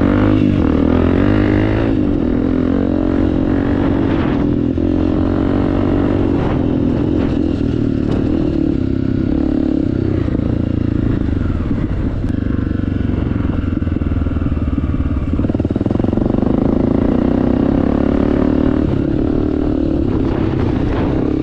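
Honda CRF250F single-cylinder four-stroke dirt bike engine running through an aftermarket FMF exhaust while being ridden. It holds fairly steady revs, the pitch rising and falling a little, with a few faint clatters.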